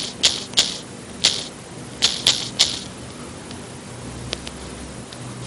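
A run of short, irregular clicks, like typing or tapping, about seven in the first three seconds, then only a few faint ticks.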